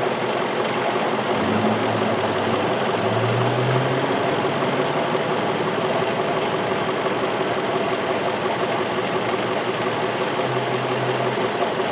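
2003 Infiniti M45's 4.5-litre V8 idling steadily. The engine carries a random-misfire (P0300) code, and its coils are being checked for spark.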